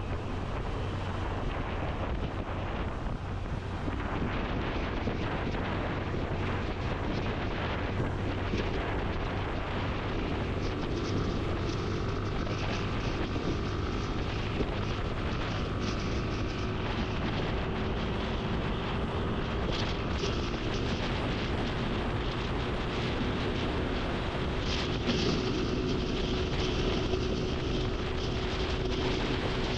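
Motorcycle running at road speed, its engine hum under a steady rush of wind and road noise.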